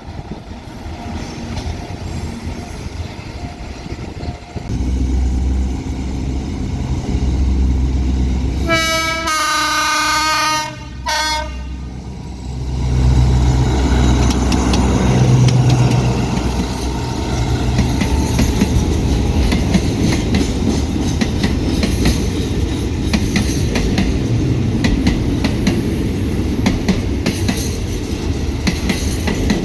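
Diesel locomotive drawing near with its engine rumbling, sounding its horn in one long blast and a short one about ten seconds in. The train then passes, the engine louder, with fast repeated clicking of wheels over the rail joints.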